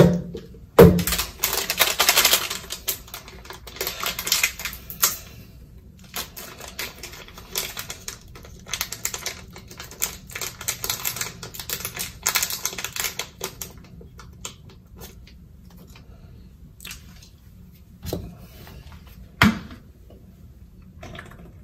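Plastic supplement containers being handled: a dense run of rapid rattling clicks for the first few seconds, scattered clicks after that, then two knocks near the end.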